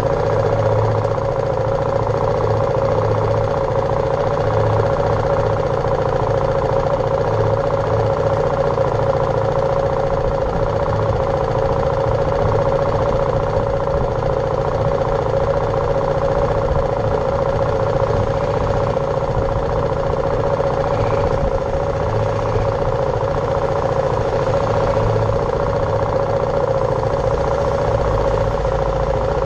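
BMW G310R single-cylinder motorcycle engine running at a steady pace while riding, its drone holding one even pitch throughout.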